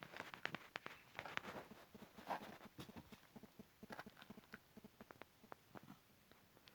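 A cat eating, with faint, quick, irregular chewing and crunching clicks.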